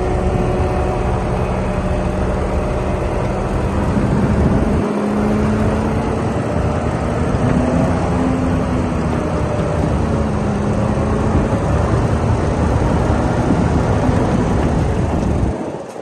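Bulldozer's diesel engine running steadily with a deep rumble, its pitch rising a little around the middle and easing back down. The sound cuts off abruptly just before the end.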